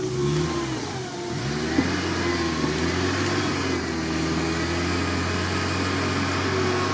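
Suzuki Samurai's engine revving up and down for about a second and a half, then running at a steady, raised speed as the truck pulls through deep mud.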